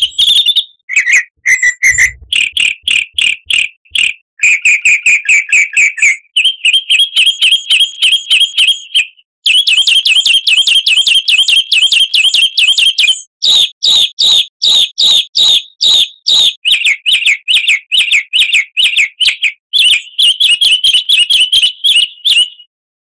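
Recorded songbird song: fast runs of high chirps, several a second, in phrases a few seconds long that shift in pitch from one phrase to the next. It stops shortly before the end.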